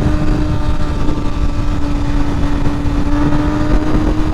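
Motorcycle engine running at a steady cruise, one constant engine note under heavy wind rush on the rider's microphone.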